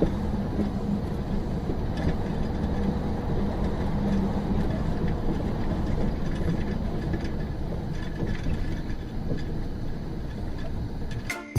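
Steady rumble of a moving vehicle's engine and road noise, picked up by a dashcam microphone.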